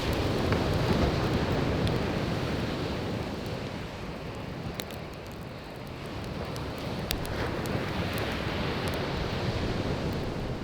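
Sea waves washing on the shore in a steady rush that eases around the middle and builds again, with a wood campfire crackling in scattered sharp pops over it.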